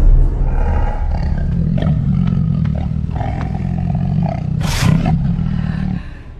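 A tiger roaring in one long, low call that holds for about six seconds and stops shortly before the end, with a short rush of hiss about four and a half seconds in.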